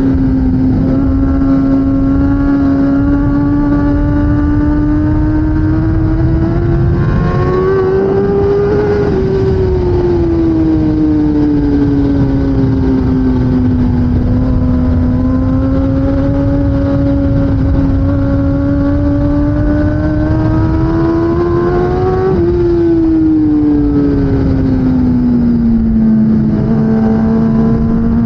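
2016 Kawasaki ZX10R's inline-four engine under race throttle over heavy wind rush. The note climbs slowly, eases down about a third of the way in, climbs again, then falls sharply about four-fifths of the way through.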